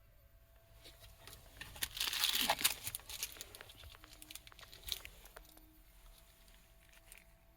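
Crinkling and rustling handling noise with scattered sharp clicks, loudest about two seconds in.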